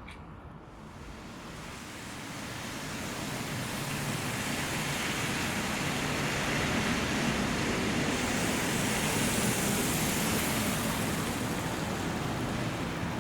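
Heavy rain falling in a steady downpour. The rushing hiss swells over the first few seconds, then holds steady.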